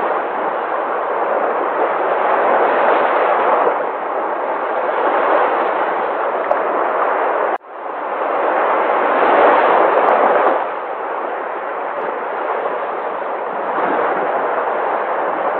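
Sea waves breaking and washing in: a continuous rush of surf that swells and eases every few seconds. About seven and a half seconds in, the sound cuts out abruptly for an instant and then builds back up.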